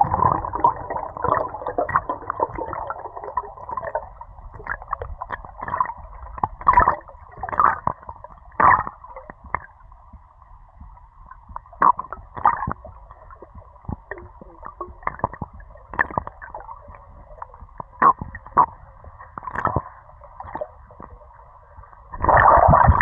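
Muffled water sloshing and gurgling heard through a waterproof camera housing, with irregular knocks and clicks. A louder rush of sound comes in about a second before the end.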